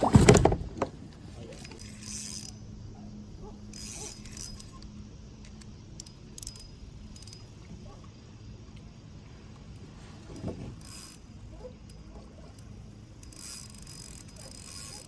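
Fishing reel being cranked while a hooked catfish is played in: a soft mechanical whir with small clicks.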